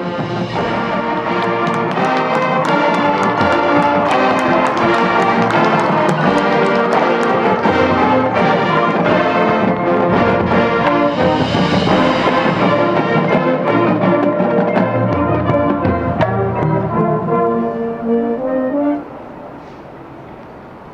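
Marching band brass playing loud sustained chords over regular percussion hits, cutting off abruptly about two seconds before the end.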